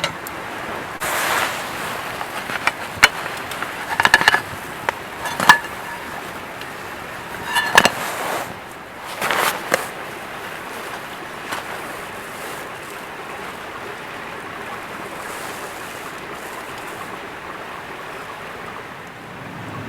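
Metal cookware clinking and knocking a number of times, some strikes with a short ring, over a steady rushing background; the clinks stop about halfway through, leaving only the rushing noise.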